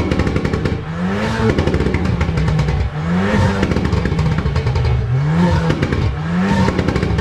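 Škoda Octavia estate's engine revved hard while standing, about four times: each rev climbs quickly in pitch, holds briefly and drops back, with crackling from the exhaust throughout.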